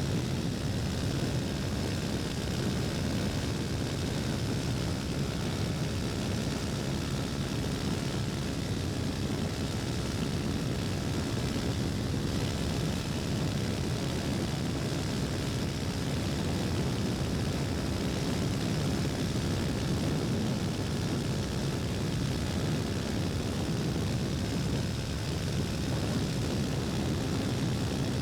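KTM Duke 250's single-cylinder engine running steadily as the motorcycle is ridden along, with no marked revving or gear changes.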